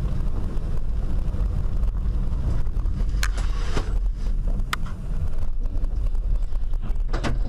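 Steady low rumble of a moving car, with a few sharp clicks about three seconds in, near five seconds and near the end.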